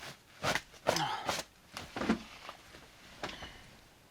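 A short run of rustles and knocks from insulation and plastic being handled in a cramped ceiling space, with a breath among them, then a few faint ticks.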